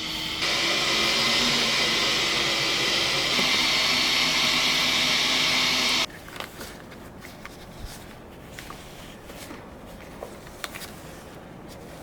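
A small vacuum motor runs with a steady whooshing whine. It stops abruptly about six seconds in, leaving a few faint clicks and knocks.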